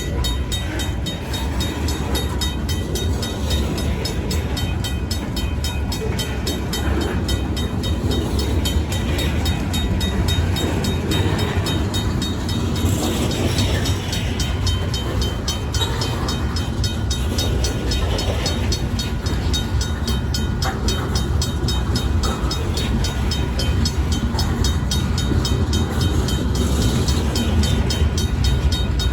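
Freight cars of a Union Pacific local rolling through a grade crossing with a steady low rumble. The crossing's RACO mechanical bell rings in rapid, even strokes over it.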